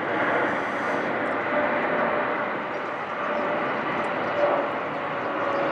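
Jet noise of a Boeing 777-300ER airliner flying overhead on approach, a steady rushing roar of its GE90 turbofans with a faint steady whine joining about a second and a half in.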